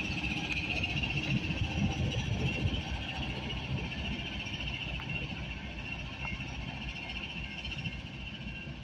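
Norfolk Southern GE AC44C6M diesel locomotive's engine rumbling and slowly fading as it moves away, under a steady high-pitched buzz.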